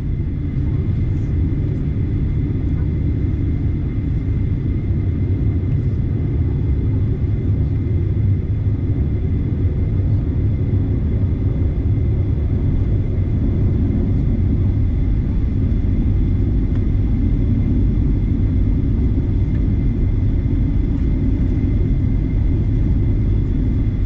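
Steady low rumble of a Boeing 737-900ER's CFM56-7B engines running at low power during taxi, heard from inside the cabin, with a faint steady high whine above it.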